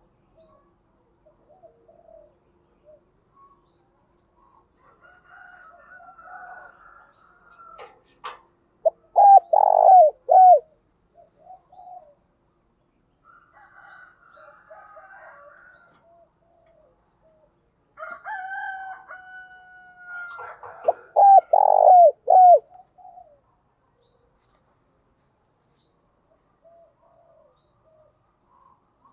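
Spotted doves cooing, as used in a recorded lure call for wild doves. There are two loud bursts of coos, about a third of the way in and again about two-thirds in, with softer cooing and calls between them.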